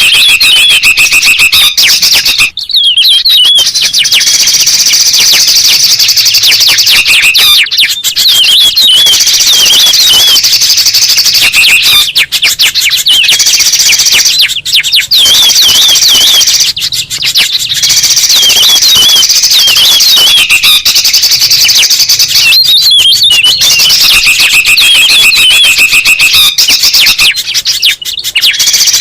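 A loud, dense bird-lure recording of songbirds calling and chattering together, with rapid chirps, warbled phrases and buzzy trills. The track breaks off briefly every few seconds.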